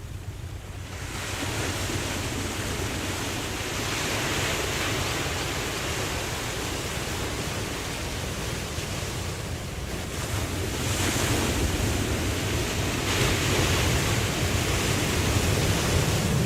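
Ocean surf: waves breaking and washing in, the rush swelling about a second in, again a few seconds later, and most strongly in the second half, over a steady low rumble.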